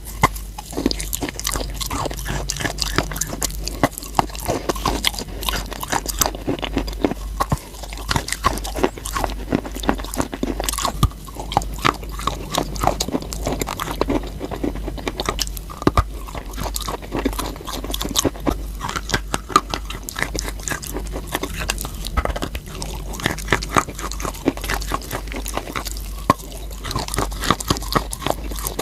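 Close-miked crunching and chewing of hard eating chalk: a continuous run of dense crackling bites.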